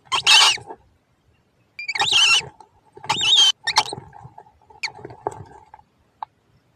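Hungry birds giving shrill, wavering begging calls: three longer calls, then a few short sharp chirps.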